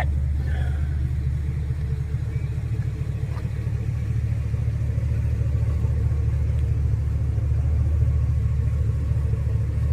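Pickup truck engine idling: a steady, deep rumble with no revving.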